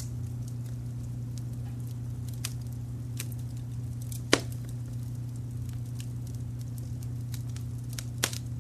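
Fireplace fire crackling with many small scattered clicks and two sharp louder pops, one about four seconds in and one near the end, over a steady low rumble of added brown noise.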